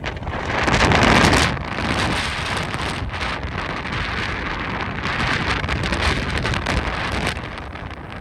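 Strong Santa Ana wind rushing and buffeting the microphone with a low rumble. One louder gust comes about a second in, then the wind settles to a steady rush.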